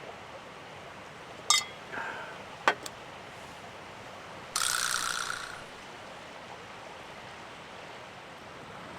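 Steady hiss of falling rain, with a few sharp clicks of something being handled and a one-second hiss about halfway through.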